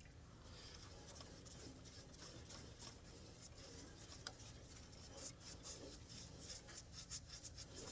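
Faint rubbing with light scattered ticks, a little busier in the second half: a rag wiping shellac by hand onto a turned wooden ornament held on a stopped lathe.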